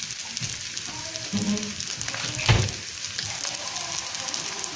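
Diced chicken breast frying in oil in a wide pan, a steady sizzle, with one louder knock about halfway through.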